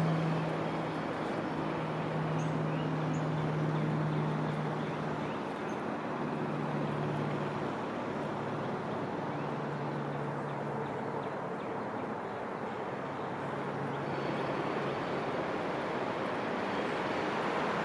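Steady outdoor background noise like distant road traffic, with a low drone that comes and goes and fades out about two-thirds of the way through. A few faint high bird chirps come near the start.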